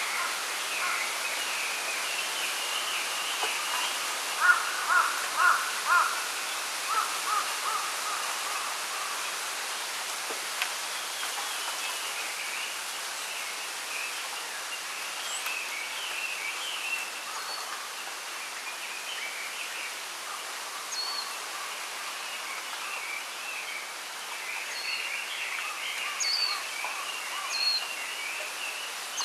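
Small birds chirping and calling over a steady rustle of wind in bamboo leaves. The loudest part is a run of about six calls, roughly two a second, between about four and seven and a half seconds in.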